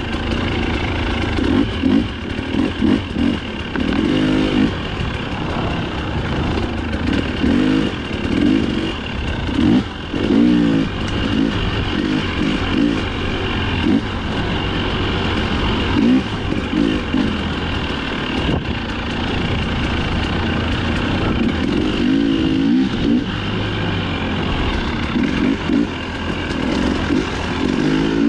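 Dirt bike engine running hard, its pitch rising and falling every second or two as the throttle is opened and closed.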